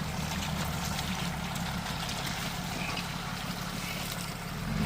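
Vehicle engine running steadily with a low drone, growing a little louder near the end.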